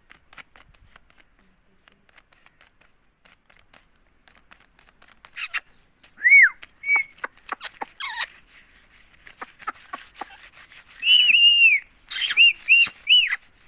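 Pet parrot calling with short, high, arching whistled notes: one about six seconds in, a longer cluster near eleven seconds, then a quick run of four, with a few sharp clicks between.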